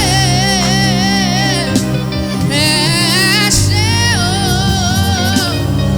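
Gospel worship song: a solo voice singing long, wavering notes with vibrato over steady sustained instrumental accompaniment.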